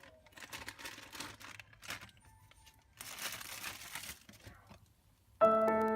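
Crinkling and rustling in irregular bursts, with a longer, denser rustle about three seconds in, as squishy toys in their packaging are handled. Piano music starts near the end.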